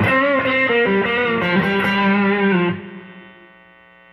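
Electric guitar with V2 clone single-coil pickups played through a Bluesbreaker-style overdrive stacked into a TS10 Tube Screamer, guitar volume rolled back slightly to smooth the high-end grit: a short overdriven lick of changing notes that ends about three seconds in on a held note, which rings out and fades.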